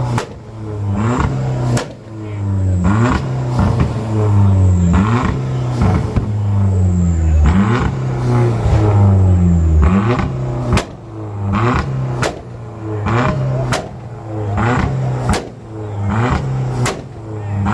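A car engine being revved hard through a loud exhaust, its pitch climbing and dropping again and again. Sharp cracks, like exhaust pops, come in about every second and a half in the latter half.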